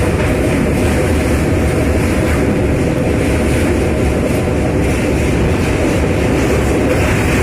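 Train running across a railway bridge: a loud, steady rumble that holds even throughout.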